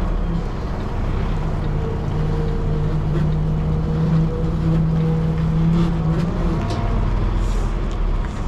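Semi-truck diesel engine running while the tractor-trailer is backed slowly into a parking spot, a steady hum that grows stronger for a few seconds in the middle.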